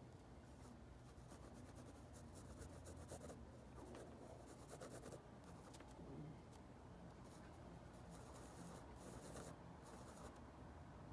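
Faint drawing strokes on paper, short scratchy strokes in quick clusters with pauses between them, over a low steady hum.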